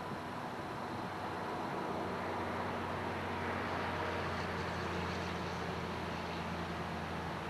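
Diesel freight locomotives running, a steady low engine hum under a haze of noise that grows a little louder about two seconds in.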